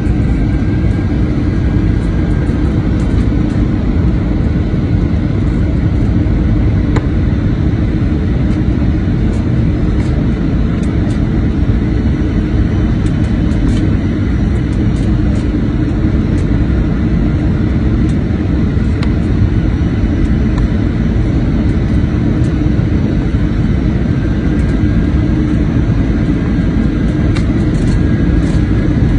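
Airbus A320 cabin noise on approach: steady, loud engine and airflow noise with a low rumble and a faint high whine.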